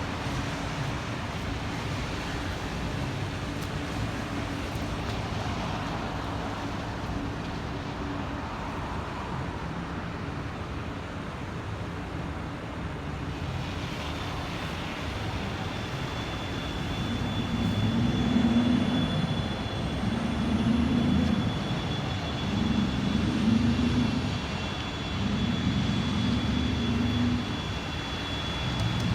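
Steady outdoor rumble like distant traffic. About halfway in a thin, steady high whine joins it, and in the second half low swells come about every two and a half seconds.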